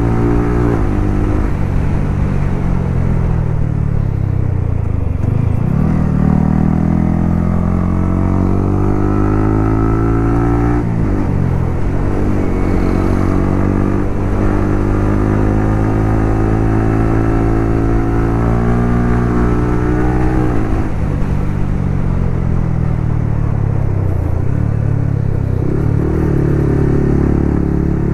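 Yamaha R15 single-cylinder four-stroke motorcycle with a loud exhaust, riding under throttle: the engine note climbs through the revs and drops sharply at gear changes about a third and two-thirds of the way through, easing down and picking up again in between.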